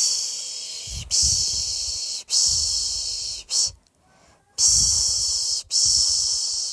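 A person making the soothing 'piş piş' shushing sound used to lull a baby to sleep: a run of long, hissing 'shhh' strokes about a second each, one of them cut short, followed by a pause of about a second before the shushing resumes.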